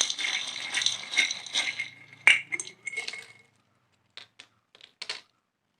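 Small hard letter pieces being mixed and drawn by hand, rattling and clinking for about two seconds, then a sharper click and a few scattered light clicks.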